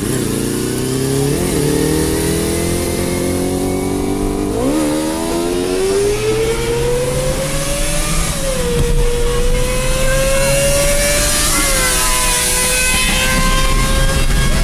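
Kawasaki ZXR250 inline-four engine accelerating hard through the gears, its high-revving note climbing and dropping back at each of about four upshifts. A steady lower engine hum runs underneath.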